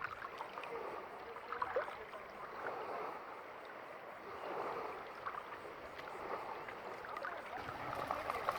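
Small waves lapping at the water's edge: a soft wash that swells and eases every second or two.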